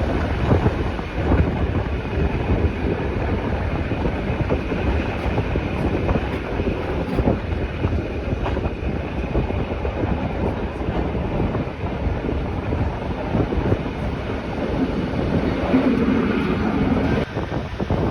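Rhaetian Railway regional train running on the Bernina line: a steady rumble of wheels on rails with many irregular clicks and knocks, growing a little louder about sixteen seconds in.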